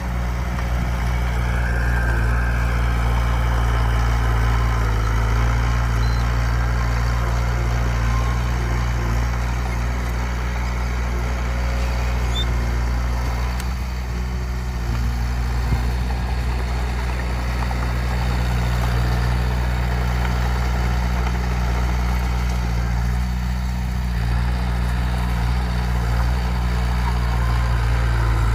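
Heavy earthmoving machine's diesel engine running at a steady speed, low and even throughout.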